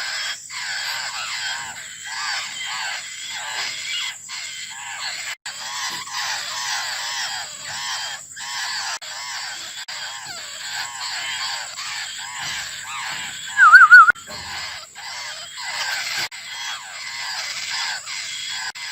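Young laughingthrushes giving a dense, overlapping run of short, harsh, repeated begging calls, asking the parent bird for food. About 14 s in, one much louder short warbling call sounds close by.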